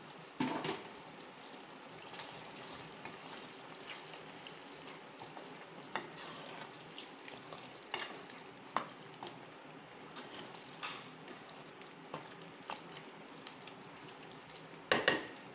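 Chicken masala with fresh mint sizzling gently in a pressure cooker over low gas while it is stirred, with scattered clicks and scrapes of the stirring utensil against the pot.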